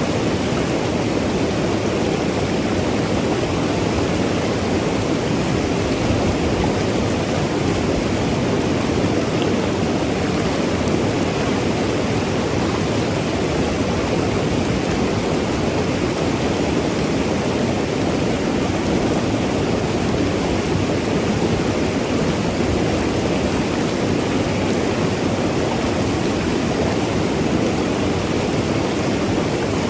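Mountain river rushing and gurgling over rocks, a steady full-bodied water noise with no change in level.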